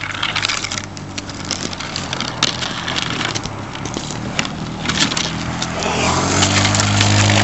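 A car engine running steadily and growing louder in the last couple of seconds, as if approaching, over scattered scrapes and clicks on snow and ice.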